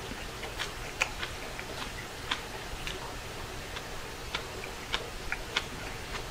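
A person chewing a mouthful of rice, with sharp, irregular mouth clicks and smacks about twice a second.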